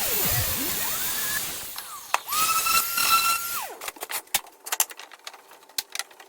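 Circular saw cutting through plywood: a loud hiss of cutting noise with the motor's pitch wavering under load. Midway the saw spins freely with a steady high whine that then winds down, followed by scattered clicks and knocks of wood being handled.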